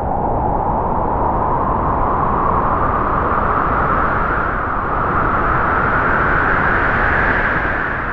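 Strong wind howling through trees, a loud continuous gusting whoosh whose pitch slowly rises through the gust and eases off near the end.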